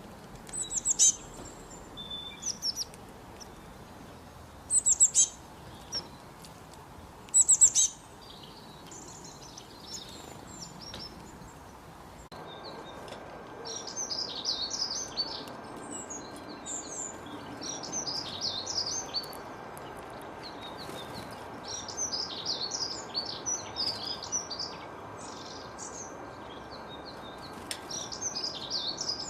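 Male canary singing: a few loud, short high chirps in the first part, then, from about twelve seconds in, a continuous run of fast, high warbling trills and rolls.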